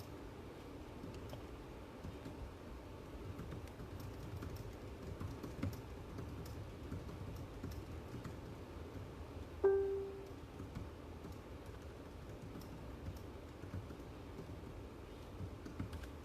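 Faint typing on a computer keyboard, light scattered key clicks. About ten seconds in, a short electronic beep sounds once.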